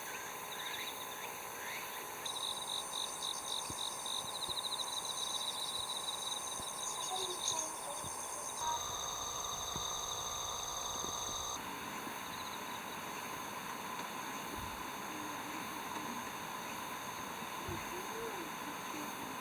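Insects chirping and trilling in a steady outdoor chorus, with a fast pulsing trill in the first half; the mix of insect tones changes abruptly a few times.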